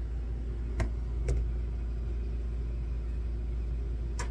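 Steady low rumble with two short, light clicks about a second in and another near the end.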